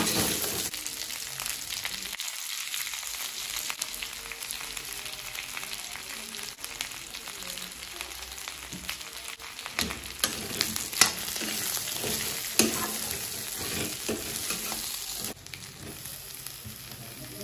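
Pork belly pieces, potatoes and onions sizzling in hot oil in an aluminium kadai, with a metal ladle stirring and scraping the pan. A few sharp knocks of the ladle against the pan stand out about two thirds of the way in.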